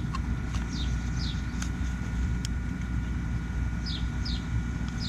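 A steady low rumble, with a bird giving short, quick descending chirps, several in the first couple of seconds and a few more near the end.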